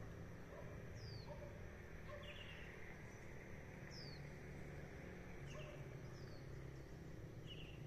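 Wild birds calling in forest, faint: short high whistled notes that slide downward, every second or so, with a few brief chirps in between, over a steady low background hum.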